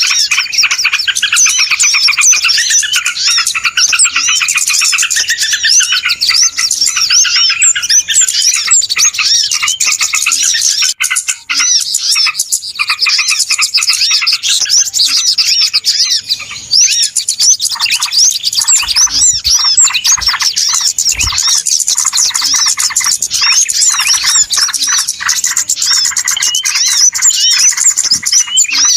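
A loud, dense chorus of many small birds chirping and twittering without a break, the kind of noisy flock recording played as a lure call to draw in small birds.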